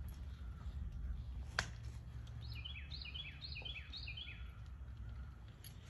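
A bird calling: a quick run of about five repeated, falling chirps in the middle, over a steady low rumble, with one sharp click about a second and a half in.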